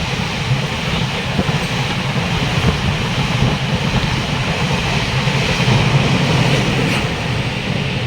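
Taiwan Railways train running through a station without stopping: a steady rumble of wheels on rail, at its loudest about six seconds in and easing off near the end.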